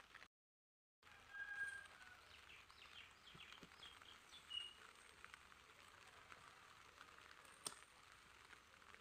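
Faint bird chirps, a run of short high calls in the first half, over quiet outdoor hiss. A single sharp click comes near the end.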